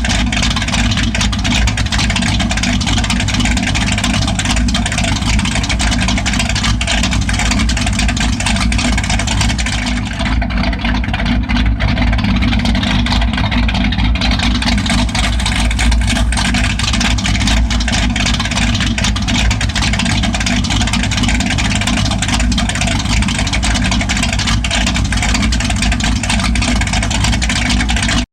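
Straight-piped 1995 Ford F-150 idling, its unmuffled exhaust running loud and steady.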